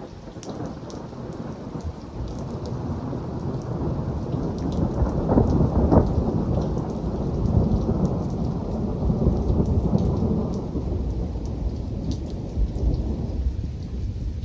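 A long rolling clap of thunder that builds, peaks about six seconds in and rumbles away near the end, over steady rain pattering.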